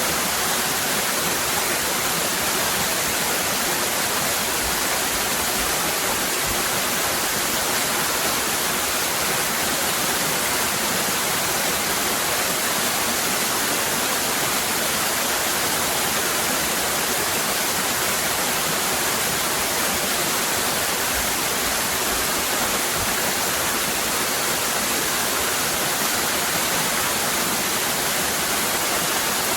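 Waterfall cascading, a steady unbroken rush of water with its hiss strongest in the high range.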